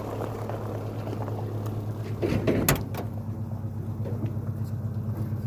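An engine running steadily with a low hum, with a brief clatter of knocks about two and a half seconds in.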